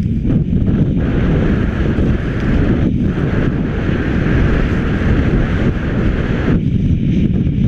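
Wind buffeting an action camera's microphone during a ski run downhill, a loud steady rumble. Over it, a hiss of skis sliding over hard snow comes in about a second in and fades near the end.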